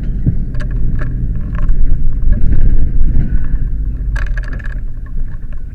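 Fire engine's diesel engine running, a steady low rumble, with scattered knocks and rattles and a louder burst of noise about four seconds in.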